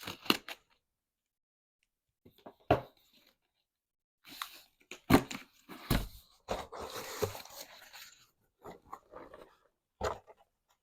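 A shipping package being handled and opened by hand: a few knocks and clicks, then a stretch of crinkly rustling of packaging about two-thirds of the way through.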